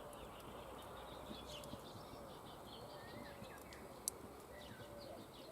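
Birds calling: a low call repeated over and over, with scattered higher chirps. A single sharp click about four seconds in.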